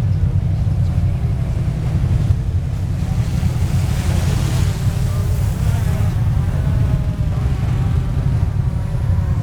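Steady low rumble with no clear start or stop.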